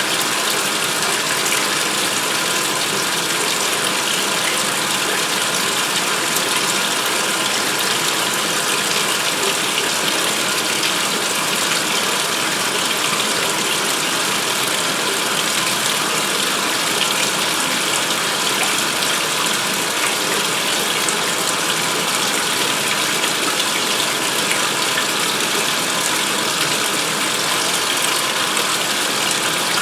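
2016 Speed Queen top-load washer filling its tub for the rinse: a steady rush of water pouring in.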